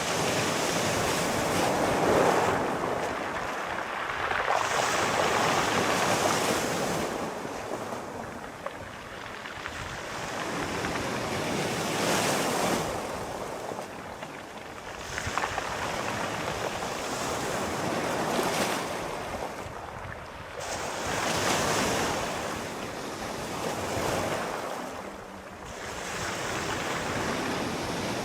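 Sea waves breaking and washing ashore, the surf swelling and fading in slow surges every few seconds.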